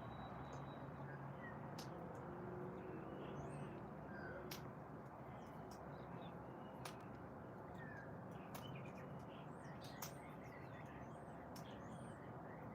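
Faint scattered bird chirps and short calls over a steady low background hum, with a few sharp clicks.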